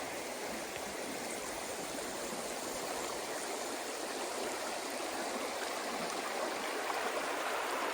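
The Gila River rushing steadily, a constant even sound of flowing water.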